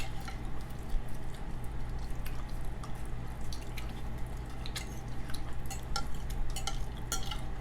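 Eating sounds close to the microphone: wet chewing and mouth clicks, with scattered short ticks, over a steady low hum.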